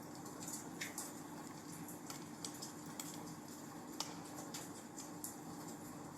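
Wood fire in a fireplace crackling: irregular sharp snaps and pops over a steady soft hiss, the strongest pop about four seconds in. A faint steady hum runs underneath.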